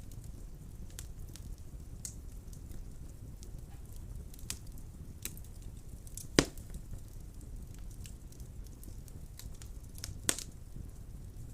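Wood fire burning in a fireplace: a steady low flame rumble with scattered crackles. There are two sharper pops, the louder one about six seconds in and another near the end.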